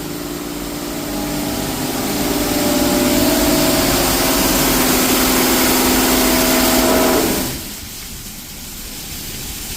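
Mark VII Aquajet XT touch-free car wash blasting high-pressure water, a loud spray hiss over a steady pump whine. The spray builds over the first few seconds and cuts off sharply about seven and a half seconds in, leaving a quieter hiss.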